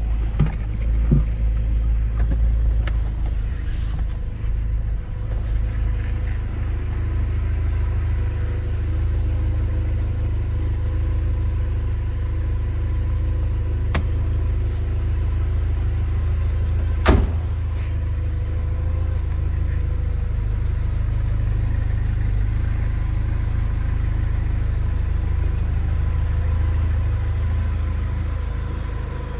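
1986 Porsche 944 Turbo's turbocharged 2.5-litre four-cylinder engine idling steadily shortly after a cold start. There is one sharp click a little past halfway through.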